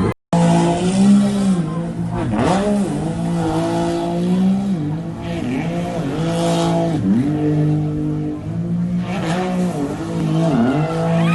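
Jet ski engine running hard, its pitch repeatedly dropping and climbing back up every couple of seconds as the revs change.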